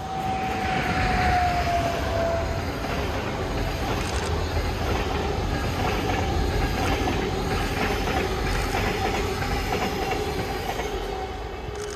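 A train passing, its wheels rumbling and clacking over the rails with a high whine that drops in pitch about two seconds in and then holds steady. The sound fades near the end.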